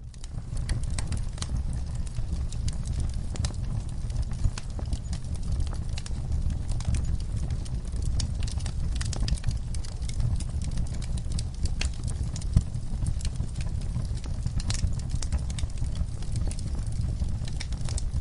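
Wood fire burning in an outdoor fire pit, crackling: irregular sharp pops and snaps over a steady low rumble, with a louder pop about four seconds in and another past twelve seconds.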